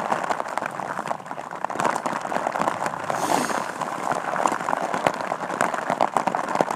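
Heavy rain hitting the waterproof bivy cover of a sleeping bag: a steady hiss filled with many quick drop impacts, heard from inside the bag.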